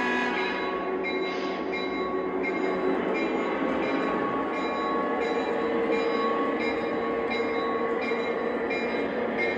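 Lionel O gauge Santa Fe E8 locomotives running along the three-rail track: a steady, continuous running rumble of motors and wheels.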